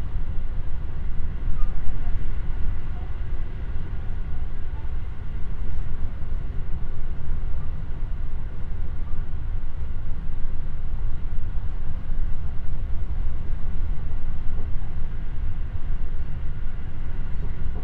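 Cabin noise of a JR West 223 series electric train running at speed: a steady low rumble of wheels on rail, with a faint steady whine above it, heard from inside the car.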